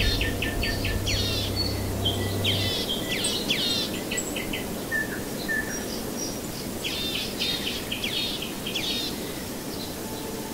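Birds chirping in clusters of quick, repeated short notes, over a steady background hiss.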